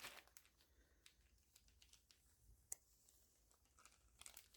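Near silence with a few faint crinkles and ticks of thin plastic sheeting being rubbed along the edge of a soft clay slab to smooth it.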